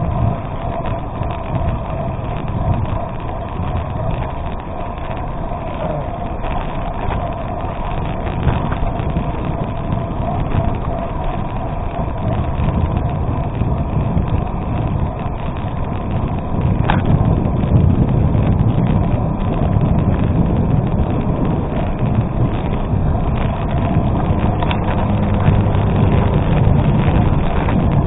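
Gravel bicycle rolling over an unpaved gravel road: steady tyre crunch and rumble mixed with wind on the microphone, getting louder about two-thirds of the way through, with a single brief click.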